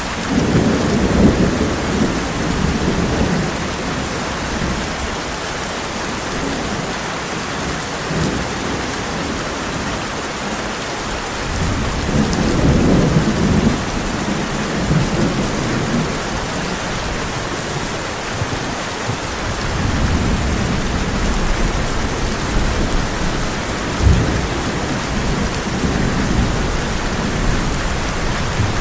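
Heavy rain falling steadily on a tin roof, with rolling thunder: a rumble right at the start, another about halfway through, and a longer roll in the last third with a sharper crack partway into it.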